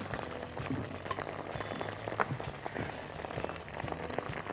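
Tomato paste and garlic frying in olive oil in a nonstick pan: a soft, steady crackle with scattered small pops as the paste starts to bubble, the sign that it has begun to cook.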